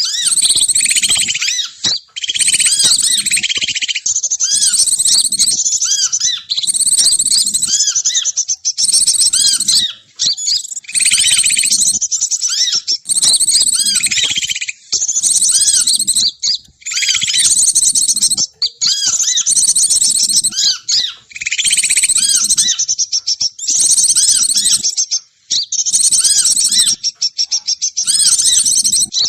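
Bird lure call: a dense, loud, high-pitched twittering of small songbirds, many quick chirps packed together in runs with brief breaks. It is played to draw wild birds down.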